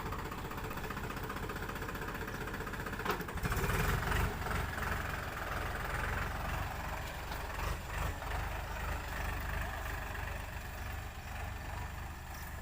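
Tractor diesel engine running with a steady low rumble, briefly louder about three to four seconds in.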